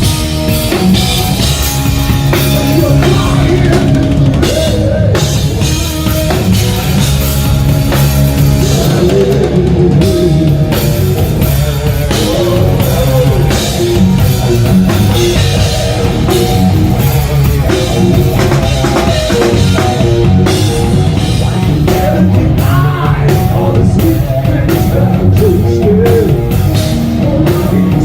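A live hard rock band playing, with drum kit and electric guitar.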